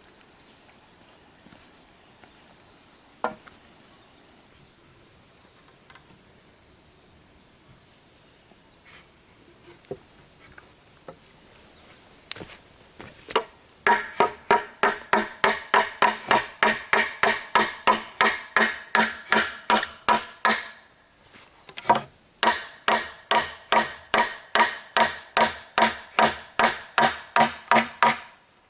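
Insects chirping steadily with an occasional single knock, then a hammer striking in a fast, even rhythm of about three blows a second, each blow ringing briefly, with a short pause partway through.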